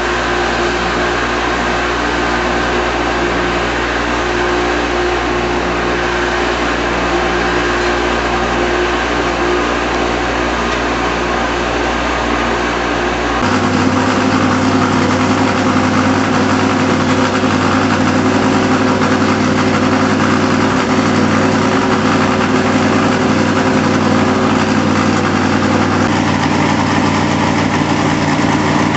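632 cubic-inch big-block Chevrolet V8 running on an engine dyno for break-in, holding a steady low speed, then stepping up to a higher steady speed about halfway through and running louder.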